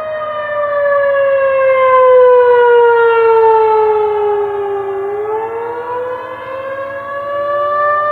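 A loud, sustained wail with several overtones, sliding slowly down in pitch for about five seconds and then rising again; a fainter second tone dips lower before climbing back.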